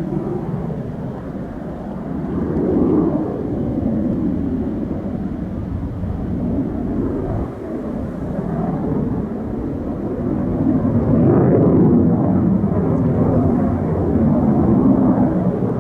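Saab Draken jet's engine roar, a loud rumbling noise echoing off chalk cliffs. It swells and fades in waves, loudest about three seconds in and again near the end.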